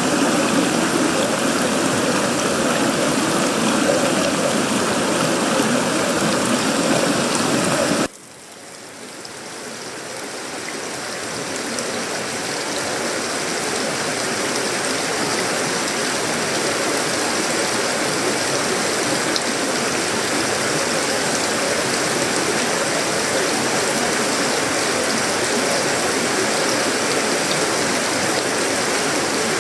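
Steady tropical rain falling on sheet-metal roofing, wood and leaves. About eight seconds in, the sound drops away abruptly, then swells back over several seconds to a steady, somewhat brighter rainfall.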